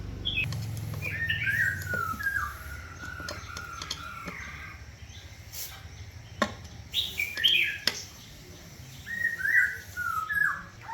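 Birds chirping in short repeated phrases, with a few sharp clicks or taps in between.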